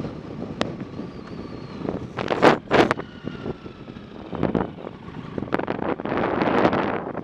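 Wind rushing over the microphone of a camera riding along on a bike, with a rumbling ride noise underneath. It gusts louder about two and a half seconds in and again near the end.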